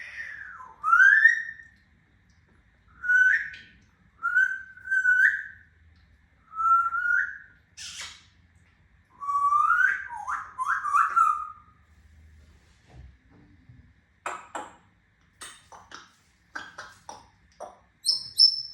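African grey parrot whistling a string of short rising whistle notes, then, in the last few seconds, a run of sharp clicks and short chirps ending on a brief high note.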